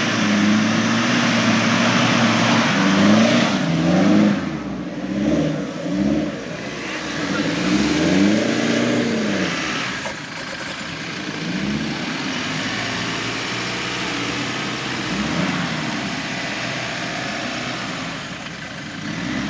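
Off-road jeep engine revving up and down again and again under load, with a rushing noise of tyres working loose ground. The revs swing most in the first half and settle to a steadier drone after about ten seconds.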